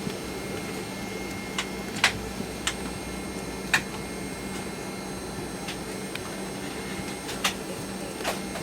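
Steady hum of an airliner cabin's air conditioning before pushback, with a constant low tone underneath, and a handful of short sharp clicks scattered through it, the loudest about two seconds in and again nearly four seconds in.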